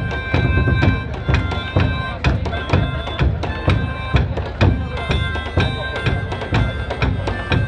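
Traditional bagpipe-and-drum music: held bagpipe notes over a steady beat of drums.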